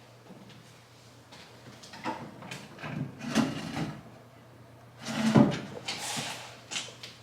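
Knocks and a scraping, rattling clatter of hard objects being moved, in a few irregular bursts; the loudest comes about five seconds in.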